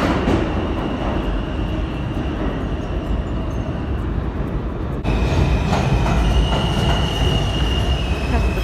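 New York City subway train running, a continuous rumble with a faint steady high wheel squeal. The sound jumps suddenly louder about five seconds in.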